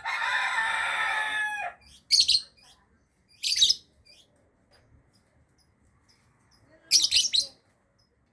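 Lovebird calling: a long chattering call of about a second and a half, then short, shrill chirps, twice in quick succession and a last burst near the end.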